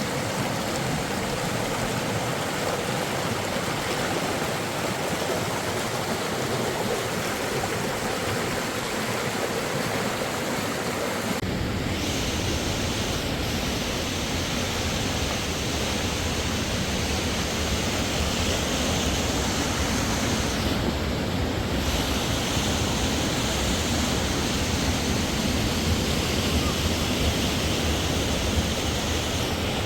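Steady rushing roar of a waterfall. About eleven seconds in, the sound changes abruptly and gains a deeper rumble.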